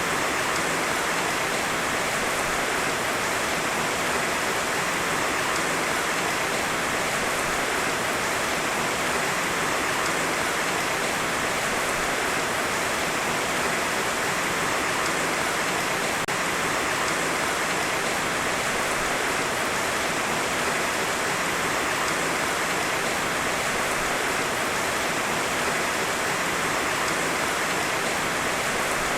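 Heavy rain falling steadily, a dense, even hiss of rain with no thunder.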